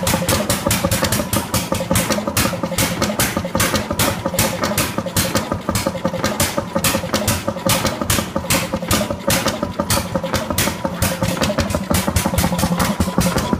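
Moline Pump Company Eli antique stationary engine running, with a fast, even clatter of sharp clicks, about five a second, over a steady hum.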